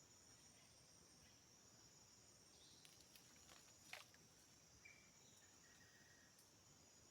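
Faint, steady high-pitched insect chorus, like crickets, with a few sharp clicks about three to four seconds in and a couple of short faint calls just after.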